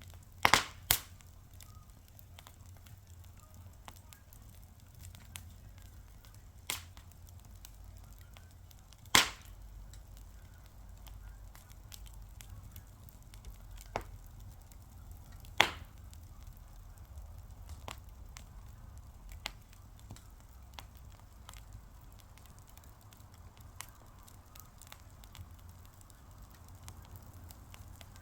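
Wood fire crackling: a low steady rumble with scattered sharp pops and snaps, loudest just after the start, at about nine seconds and at about fifteen and a half seconds.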